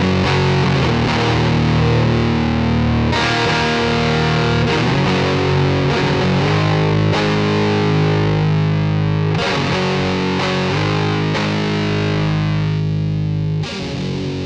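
Electric guitar played through a Big Muff–style fuzz pedal: thick, heavily distorted sustained chords, changing every second or two.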